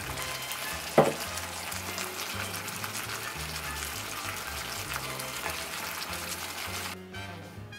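Spicy stir-fried pork in a frying pan sizzling and crackling on the pan's leftover heat after the burner is turned off, under background music. One sharp knock about a second in. The sizzling stops near the end.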